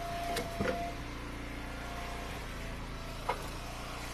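Hydraulic wood splitter's engine running steadily, with a few short clunks of split ash firewood. There are two near the start and a sharper one about three seconds in.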